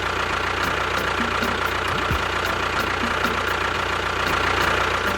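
Engine of a miniature DIY tractor running steadily at idle, with a light regular ticking a few times a second.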